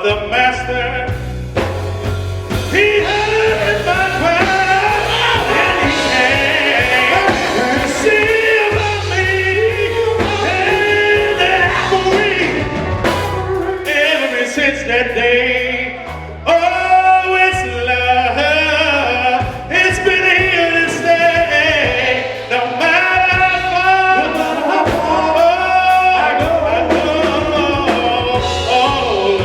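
Male gospel group singing with a band, a bass holding steady low notes underneath. The singing dips briefly about halfway through, then comes back in full.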